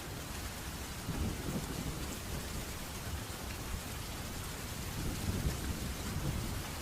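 Steady rain falling in a thunderstorm, with low rolling thunder swelling about a second in and again near the end.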